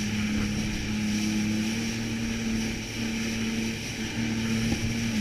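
Jet ski engine running at a steady cruising speed: an even, unbroken drone.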